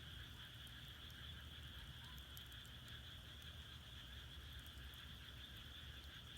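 Faint wood fire burning in an agungi firebox, with scattered soft crackles, over a steady chorus of frogs.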